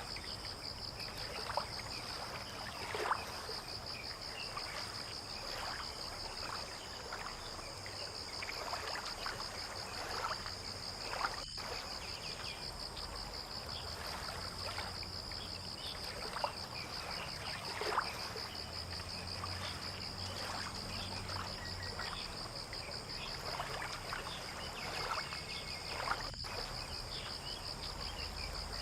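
Insects keeping up a steady, fast-pulsing high trill, over water lapping and splashing at the harbour's edge in small irregular slaps, with a low rumble beneath.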